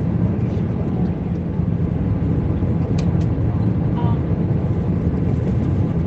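Airbus A320 cabin noise in flight: a steady low rumble of engines and airflow. A couple of faint clicks come about three seconds in.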